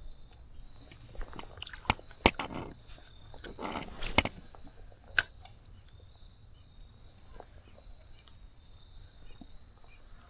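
A run of sharp knocks and clicks over the first five seconds, loudest about two and four seconds in. Then a faint, steady background with a thin high tone.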